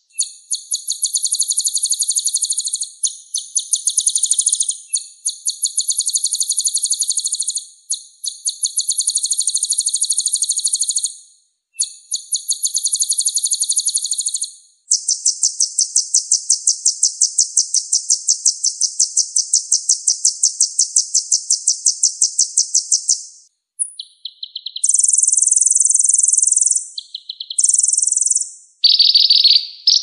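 Songbird giving rapid, high-pitched chattering trills in repeated phrases of one to three seconds, with one long trill of about eight seconds midway, then shorter bursts.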